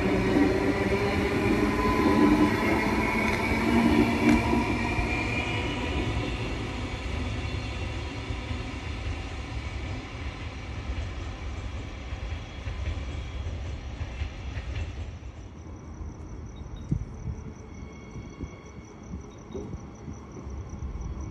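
Electric suburban passenger train running by and fading away, a whining tone gliding in pitch over the first few seconds above the rumble of the wheels. From about fifteen seconds in, insects chirp in a steady pulsing trill.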